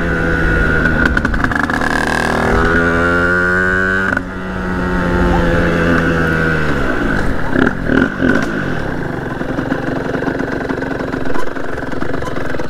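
Sherco 50cc two-stroke motorcycle engine revving hard under acceleration for about four seconds. The throttle then closes and the revs fall away over the next few seconds as the bike slows, running low and rough after that, with a few knocks about eight seconds in.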